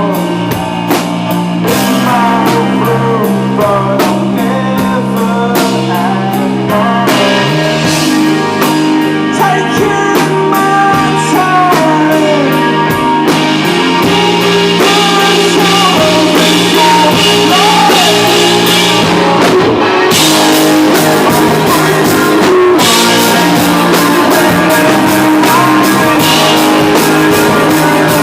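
Live rock band playing loudly, with a drum kit and guitars.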